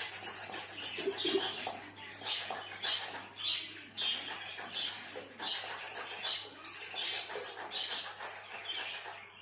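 Pet parrot chattering in a run of short, harsh, raspy calls, several a second, with brief gaps between them.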